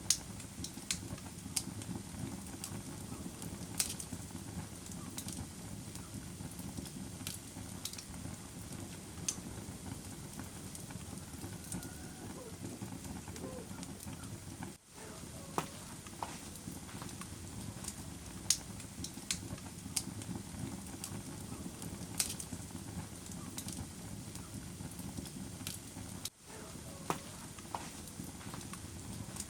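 Wood fire burning in a fireplace: a steady low rumble with sharp crackles and pops at irregular intervals.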